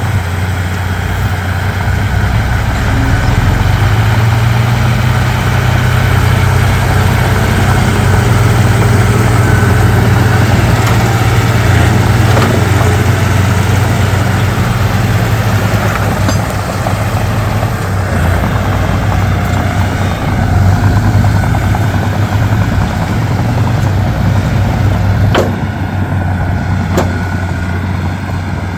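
Komatsu D31P crawler bulldozer's diesel engine running steadily, getting louder a few seconds in and easing off near the end. Two sharp metallic knocks come near the end.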